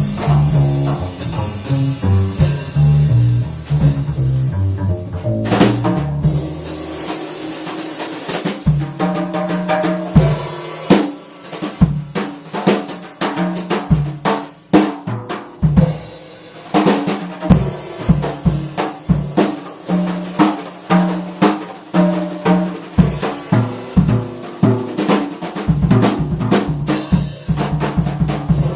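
Jazz drum kit played solo, with rapid irregular strikes on snare, toms, bass drum and cymbals, after the bass plays low plucked notes for the first few seconds.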